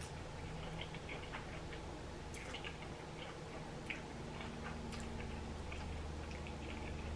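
A person chewing a mouthful of ramen noodles, close to the microphone, with small scattered mouth clicks.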